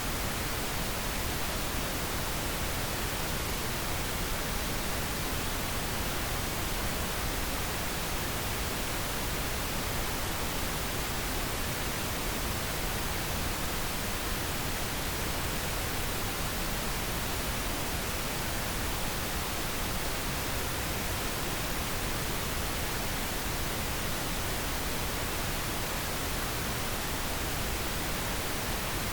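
Steady pink noise: an even, unchanging hiss spread across the whole range, with nothing else in it.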